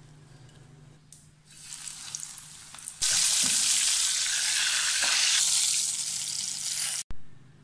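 Oat-coated soft-shell crab frying in hot vegetable oil. After a quiet start the sizzle rises, then turns loud and steady about three seconds in, and cuts off abruptly near the end.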